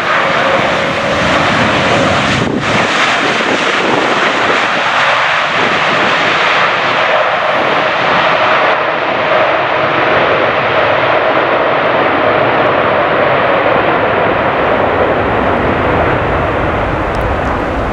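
Boeing 787 jet airliner's engines running as it passes on a landing approach: a loud, steady rush with a faint hum that drifts slightly lower in pitch.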